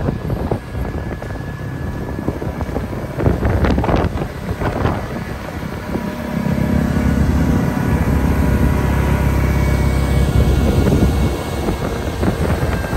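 Blizzard-force wind buffeting the microphone in gusts, with a heavy low rumble from about halfway through to near the end. A faint steady machine hum sits underneath.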